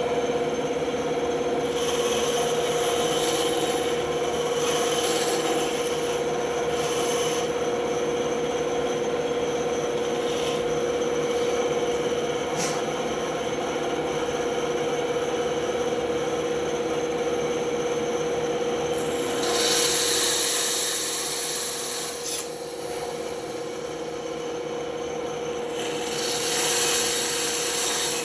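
Band saw running with a steady hum while its blade cuts through wood, the rasping cut noise growing louder in stretches, most strongly about two-thirds of the way in and again near the end.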